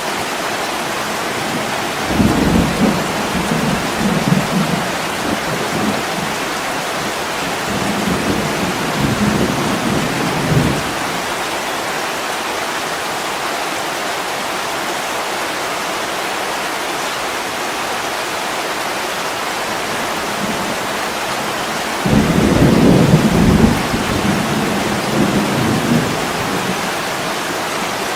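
Heavy rain pouring steadily on a window. Thunder rolls twice: a long rumble starting about two seconds in and lasting some eight seconds, then a second, shorter roll later on.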